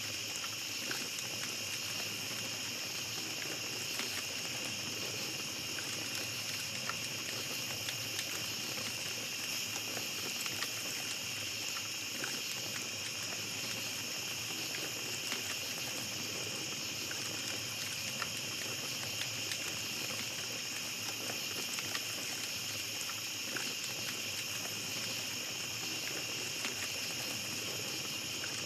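Small campfire crackling, with scattered sharp pops, over a steady high-pitched chorus of night insects.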